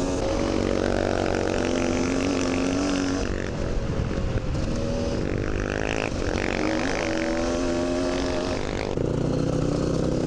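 Dirt bike engine revving up and down as the rider works the throttle and gears, its pitch rising and falling, with a brief dip and some clatter about four seconds in and a settle to a lower, steadier note about nine seconds in.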